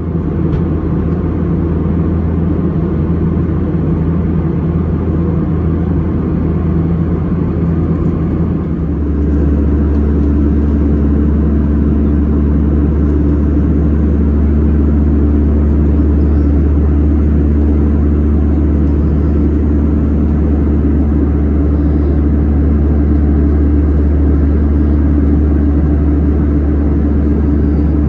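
Steady cabin rumble of an Airbus A320-200 in flight, airflow and engine noise. About nine seconds in, the rumble deepens and a steady hum joins it.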